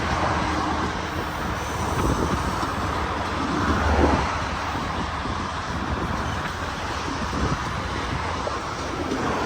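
Steady rumble of a freight train rolling into a rail yard, with a brief louder swell about four seconds in.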